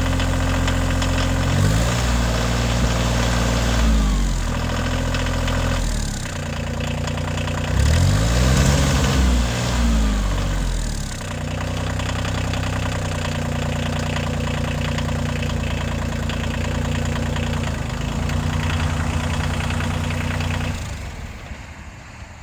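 Kioti CX2510 compact tractor's three-cylinder diesel engine running, revved up and down a few times, then running steadily before dying away near the end.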